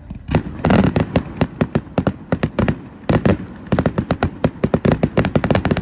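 Aerial fireworks exploding in a fast run of sharp bangs and crackles, many a second, with a brief lull about three seconds in.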